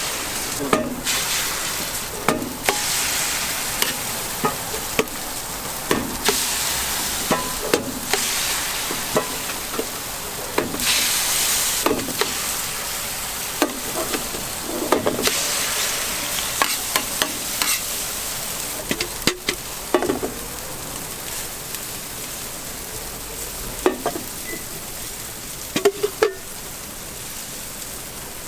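Food sizzling on a street-toast griddle, the hiss swelling louder several times, with many short sharp clicks and scrapes of a metal spatula working on the hotplate.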